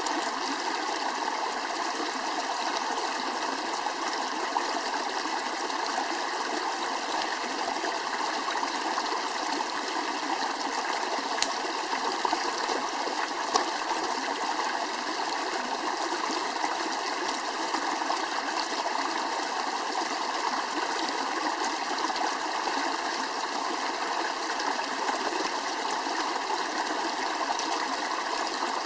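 Steady rushing of flowing water, like a stream, with a couple of sharp clicks about halfway through.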